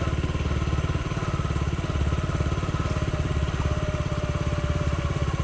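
Honda CT70's small single-cylinder four-stroke engine running steadily, its evenly pulsing exhaust note holding one pitch.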